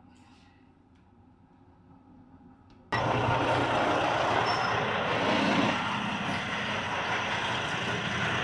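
Near silence, then about three seconds in a sudden cut to a truck running, a loud steady engine and road noise with a low hum.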